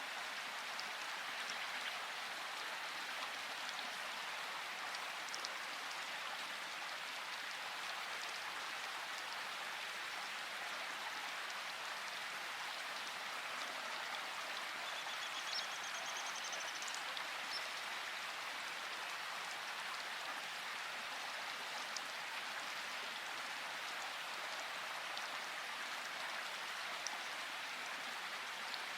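Steady rain falling, an even hiss with the occasional single louder drop striking close by.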